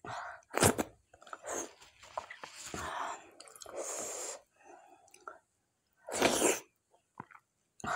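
Close-miked eating of spicy mutton curry and dhido by hand: wet chewing and mouth noises, broken by a few short, loud, sharp breaths, one about half a second in and one about six seconds in.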